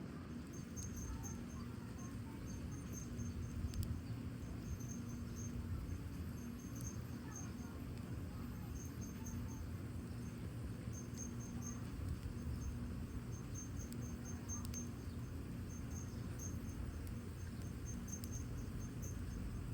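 Crickets chirping in short repeated trills over a low steady rumble, with a firewood fire in a fire pit giving an occasional sharp crackle, the loudest about four seconds in.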